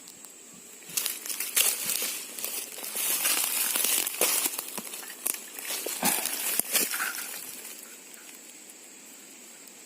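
Dense crinkling and crackling, like something being handled and crumpled close to the microphone, lasting about six seconds from about a second in.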